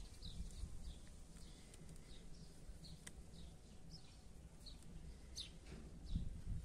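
A small bird chirping over and over, short high calls about two a second, over a low rumble.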